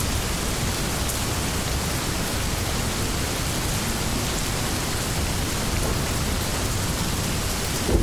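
Steady rain falling hard, an even, unbroken hiss of water.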